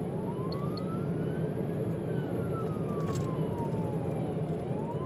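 Police siren on a slow wail, rising and falling in pitch, one full rise-and-fall taking about four and a half seconds. It sounds over steady low vehicle and road noise during a high-speed pursuit.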